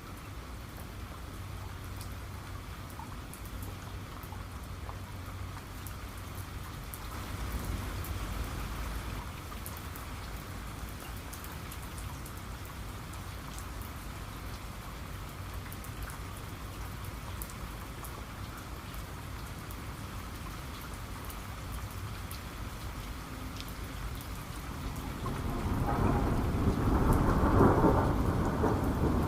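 Steady rain with scattered drop ticks, and thunder: a soft low rumble about a quarter of the way in, then a louder rumble building near the end.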